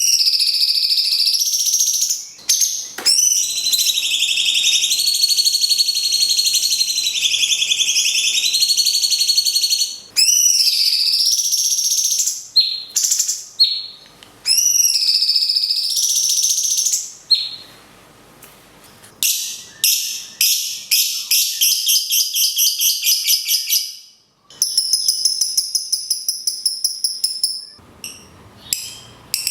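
A cucak cungkok and a lovebird singing in alternation: long, high, shrill whistled phrases that slide up and down, broken by short sweeping notes, then runs of fast repeated chattering notes at about five a second in the second half.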